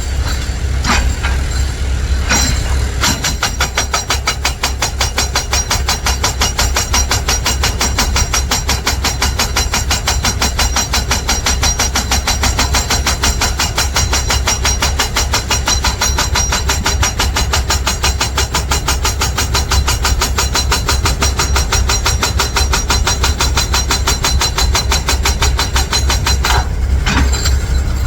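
Heavy diesel engine running with a steady low rumble and a fast, even clatter that sets in about three seconds in and stops shortly before the end.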